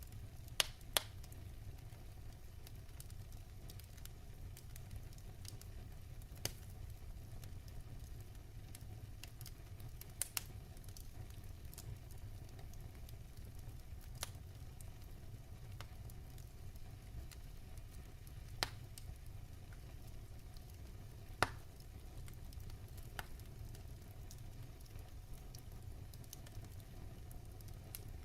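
Wood fire crackling in a fireplace: a steady low rumble of the burning logs, with sharp, scattered pops every few seconds, two close together about a second in and a louder one around two-thirds of the way through.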